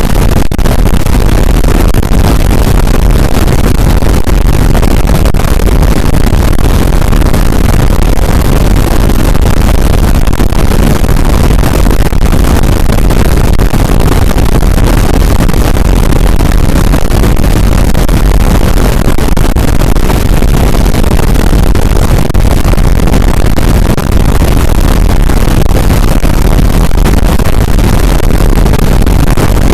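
Harsh noise music: a loud, unbroken wall of distorted noise spread across the whole range from deep bass to hiss, heaviest in the low end, with no beat or melody.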